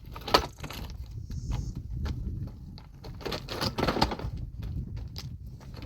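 Irregular knocks and clatter of hard objects, with a sharp knock about half a second in and a busier run of clattering a little past the middle.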